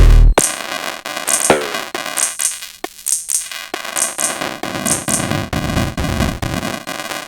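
Techno pattern from a Sonic Potions LXR-02 digital drum machine. The heavy kick drum drops out just after the start, leaving paired high hat-like hits about once a second over clicky percussion, with a low swell coming in around the middle.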